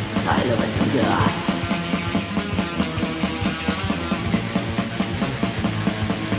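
Black metal band playing an instrumental passage: fast, even drumming under dense distorted instruments.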